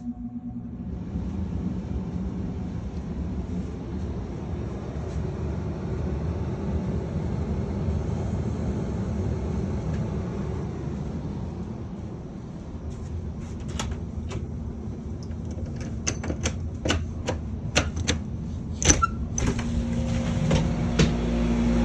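Carrier WeatherMaker 58SX furnace's blower starting with a click and building up to a steady rush of air for cooling mode. From about 13 seconds in, a run of sharp ticks and clicks sounds over it, and near the end a steady low hum comes in and the sound grows louder.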